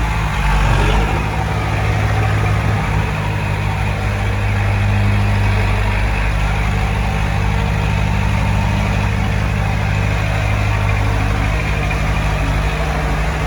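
Heavy construction machine's diesel engine running steadily at a low pitch, with a brief rise in loudness about a second in.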